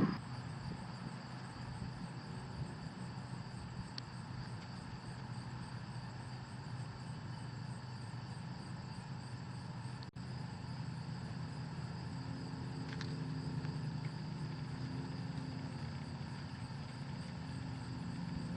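Outdoor background: insects chirping in an even, pulsing rhythm over a low steady rumble.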